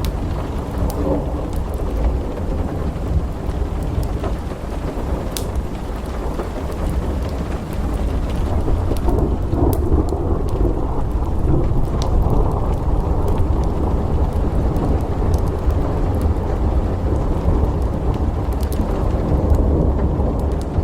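Thunder rumbling low and continuously under steady rain, swelling somewhat about eight seconds in, with scattered sharp pops and crackles from a wood fire.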